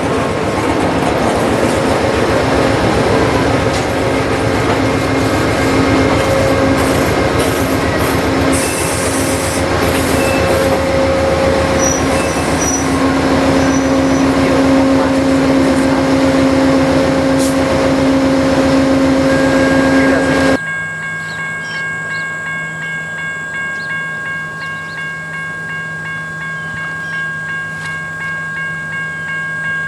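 Amtrak diesel passenger locomotive running steadily, a loud rumble with a droning hum. About two-thirds of the way through, the sound drops suddenly to a quieter, steady hum with a few thin high whines.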